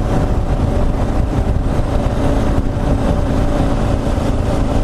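Kawasaki KLR650's single-cylinder four-stroke engine running steadily as the motorcycle cruises at road speed.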